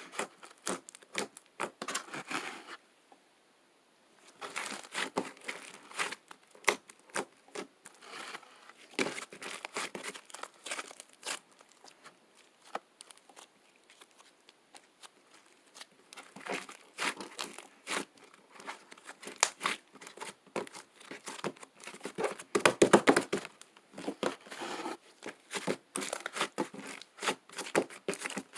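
Fluffy slime being squished, stretched and pulled apart by hand, making dense crackling and tearing sounds in spells, with a short pause about three seconds in.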